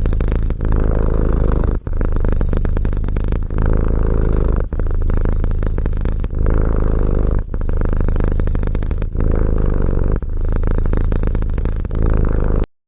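A cat purring loudly, close to the microphone: a steady low rumble that breaks briefly about every one to one and a half seconds as the cat breathes in and out.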